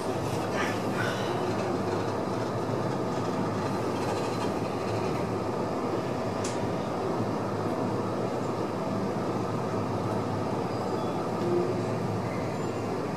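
Steady running noise of a moving train heard from inside a passenger carriage: an even low rumble of wheels on track.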